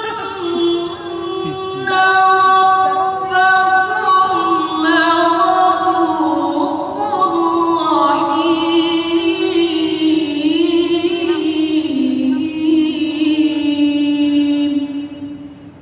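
A woman reciting the Quran in the melodic tilawah style, drawing out one long ornamented phrase with wavering turns of pitch. It is the closing phrase of the recitation and breaks off about fifteen seconds in.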